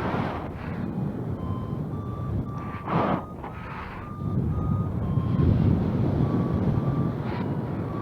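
Flight variometer beeping, short steady tones about two a second that step slightly in pitch, over wind rushing on the microphone in gusts.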